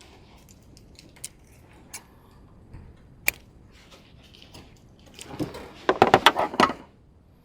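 A few separate sharp clicks, then a burst of rattling clatter lasting under two seconds, near the end: small hard objects being handled or knocked together.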